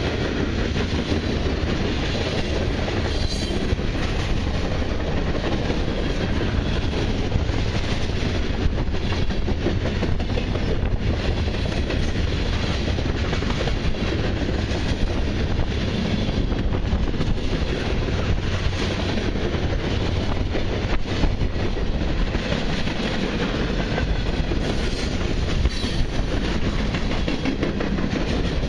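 Autorack and mixed freight cars of a long freight train rolling past: a steady, loud rumble of wheels on rail, with many short clicks throughout.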